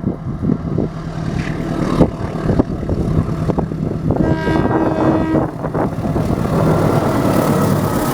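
Indonesian Railways CC 201 diesel-electric locomotive running with a steady low engine rumble, hauling a passenger train. About halfway through, a pitched blast of just over a second sounds over the rumble, fitting the locomotive's horn.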